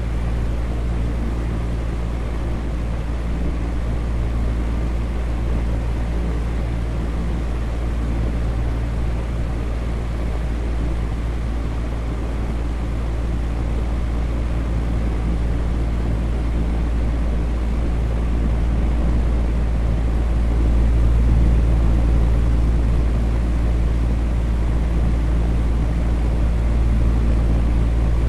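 Electric fan running steadily, a constant whooshing noise with a deep low hum underneath.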